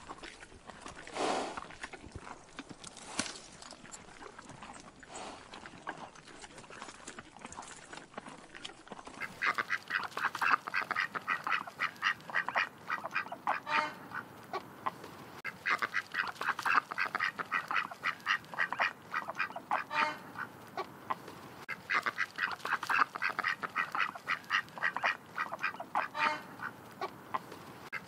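Ducks quacking in fast runs of short calls, in bouts of about four seconds that repeat every six seconds, starting about nine seconds in after a quieter stretch.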